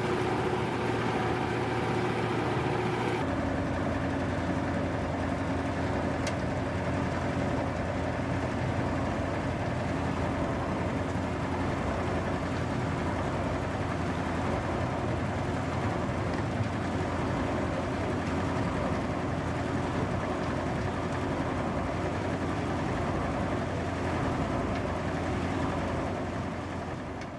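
Industrial machinery of a waste plastic washing line running steadily, a continuous mechanical hum and rumble. Its pitch changes abruptly about three seconds in, and it fades out at the end.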